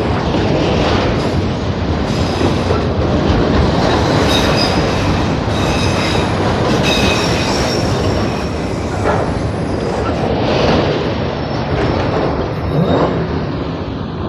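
Canadian National manifest freight train's cars rolling past close by: a steady rumble of steel wheels on rail. Faint high wheel squeal comes in for a few seconds in the middle, and a few louder clacks come near the end.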